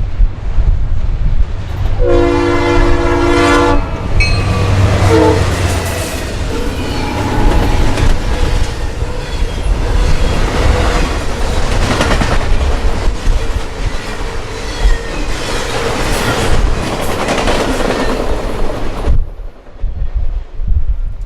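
Train passing on the Norfolk Southern Chicago Line, opening with a locomotive horn blast about two seconds in that sounds a chord for under two seconds. The wheels then rumble and clickety-clack over the rail joints as the cars roll by, and the sound stops abruptly near the end.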